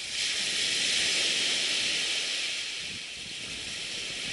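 Surf washing up the beach: a rushing hiss that swells about a second in and then fades.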